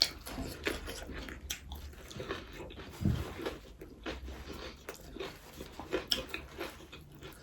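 A person biting and chewing a chicken roll close to the microphone: irregular small wet clicks and crunches of eating.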